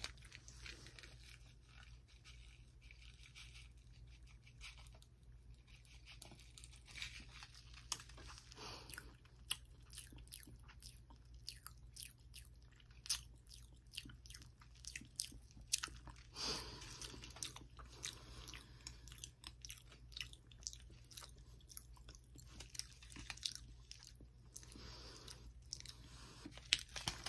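Faint chewing and crunching of small banana candies, with many short crisp clicks at irregular intervals over a low steady hum.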